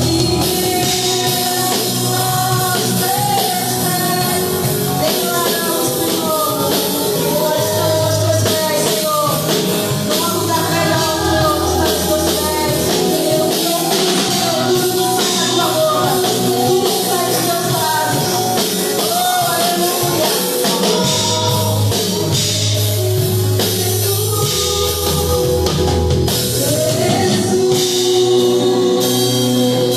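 A live gospel worship band playing, with singing over a drum kit and sustained low bass notes.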